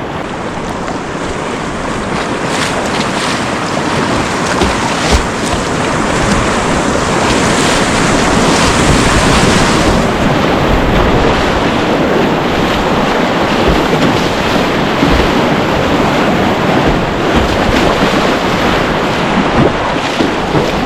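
Loud rushing water mixed with wind buffeting the microphone, with scattered knocks and splashes; the hiss gets a little duller about halfway through.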